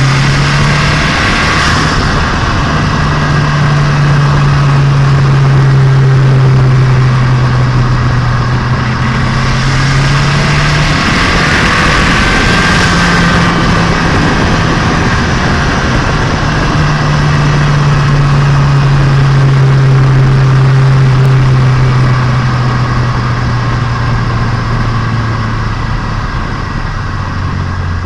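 Turbocharged Nissan Micra engine and exhaust pulling steadily while driving, an engine being run in. The note holds with a slight fall in pitch, shifts briefly about a third of the way in, settles into a long steady pull again, and drops near the end, over road and wind noise.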